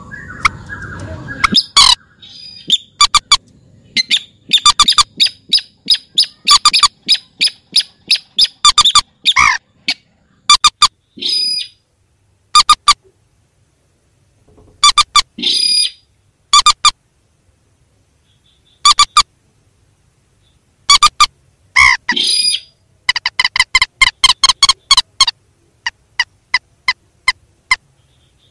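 Recorded rail calls (mandar and sintar) used as a trapping lure: runs of short, sharp notes in bursts with short pauses, a couple of longer notes partway through, and a faster even run of notes near the end.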